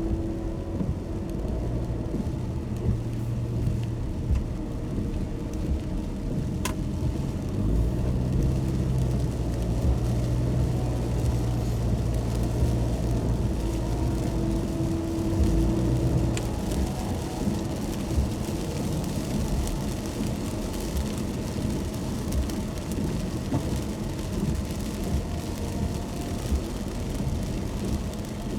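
A car driving in the rain: a steady low drone of engine and road noise with a hum, and a hiss of rain and wet tyres that grows stronger in the second half. Two faint clicks come through, about a quarter of the way in and again past the middle.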